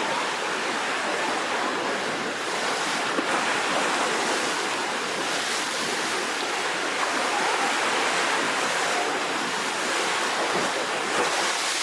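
Rough sea surf washing and breaking continuously, a dense steady rush of water.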